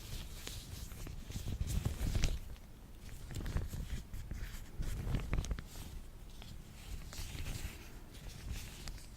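Latex-gloved hands slathered in lotion rubbing and pressing together, giving irregular sticky crackles and small clicks with soft handling rumble beneath.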